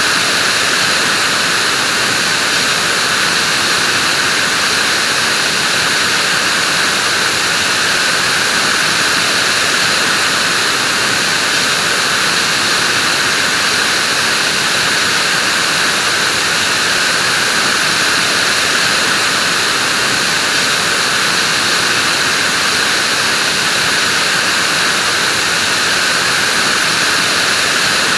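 Vacuum cleaner running steadily, a constant loud rushing whoosh with a high whine and no change in pitch or level.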